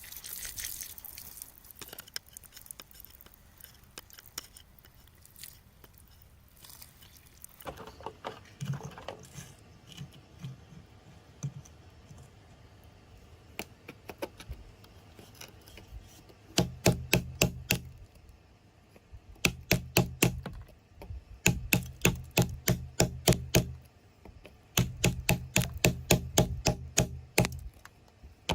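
A metal hand tool tapping and chipping at rock: faint scattered clicks at first, then, from a little past halfway, runs of quick sharp knocks, several a second, lasting a second or two each, with short pauses between.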